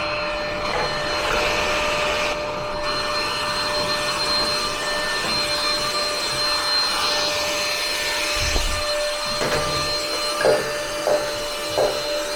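A vacuum cleaner running steadily with a constant whine, cleaning dust from a gas water heater. In the last few seconds there are several short knocks and scrapes, like the nozzle striking metal parts.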